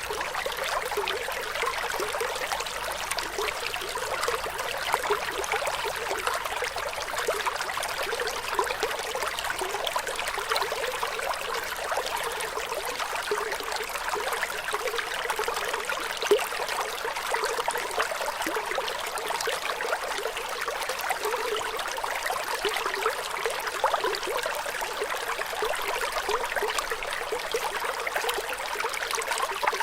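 Flowing water: a small stream trickling and splashing with a steady, even rush and many fine droplet sounds.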